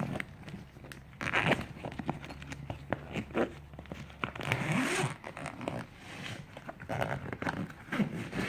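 Zippers on a fabric bag being worked, with several uneven zipping rasps and rustling of the bag.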